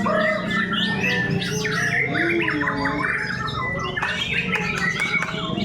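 Murai batu (white-rumped shama) birds singing, several at once: dense, overlapping rapid whistles, trills and chirps, over a steady low hum.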